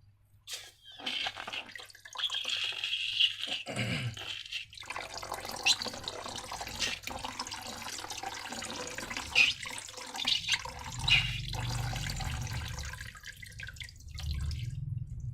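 Wet squelching and dripping of slime being squeezed and poured from a balloon, with a few sharp clicks and smacks along the way.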